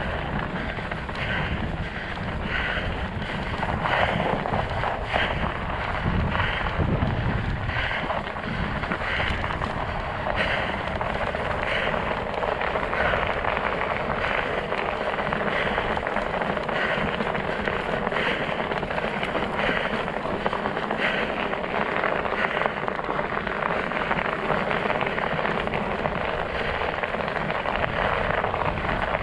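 Studded fat-bike tires rolling over ice and snow, a steady rushing noise, with wind rumbling on the microphone in the first several seconds.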